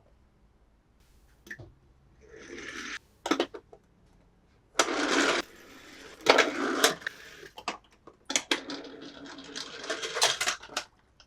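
Toy packaging being handled and opened: plastic and cardboard crackling and rustling in several short bursts, with sharp clicks in between and a longer stretch of crackling near the end.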